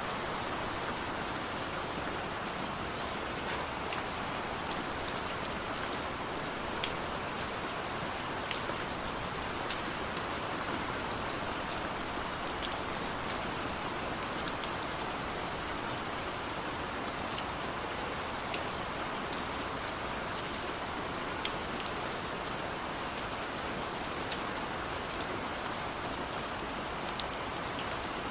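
Steady rain falling on a surface, an even hiss with individual drops ticking sharply here and there.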